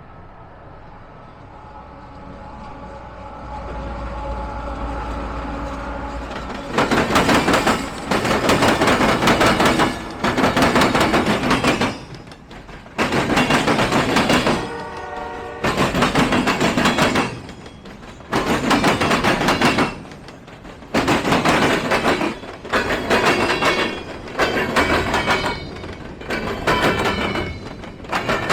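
A train approaching with a steady multi-note tone growing louder, typical of a locomotive horn. About seven seconds in, the train passes close by with loud rumbling surges that repeat every couple of seconds.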